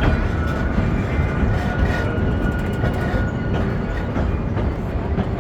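Amusement-park train heard from aboard: the steady rumble of the cars rolling along the track, with scattered clicks of the wheels over the rail joints and a faint steady high whine.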